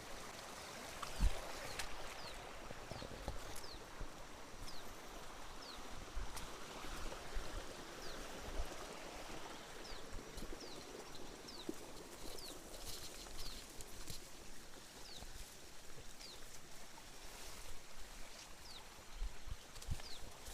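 A mountain stream running steadily under a forest bird that repeats a short, high, falling whistled note about once a second. There are a few low knocks, the loudest about a second in.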